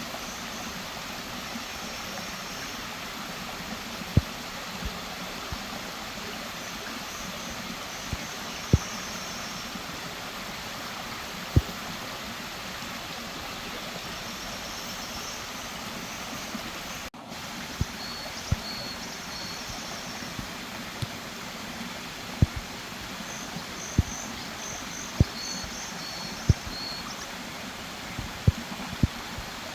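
Mountain valley stream rushing steadily, with irregular sharp taps every second or two and faint high chirps in short runs.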